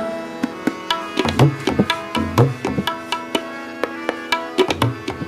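Tabla playing a steady pattern, with the bass drum's low strokes bending in pitch, over held harmonium notes. This is the instrumental gap between sung lines of a Sikh kirtan shabad in Raag Malaar.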